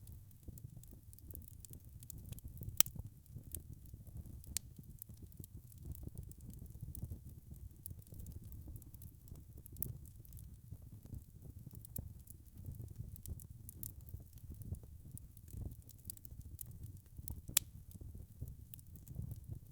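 Wood fire crackling in a fireplace: a low rumble of flames with a steady scatter of small snaps and pops. Two louder pops come about three seconds in and again near the end.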